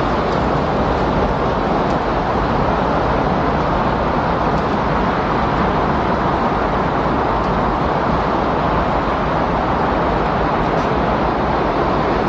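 Windstorm: a steady, dense rush of wind noise that holds the same level throughout, without gusts or breaks.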